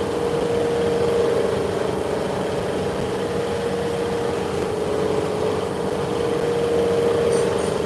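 Machine running with a steady hum and a strong, held mid-pitched tone.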